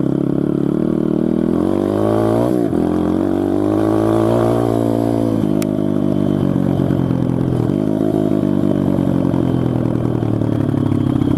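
SSR TR160 pit bike's single-cylinder four-stroke engine running under way, revving up twice and falling off sharply each time, then running more evenly.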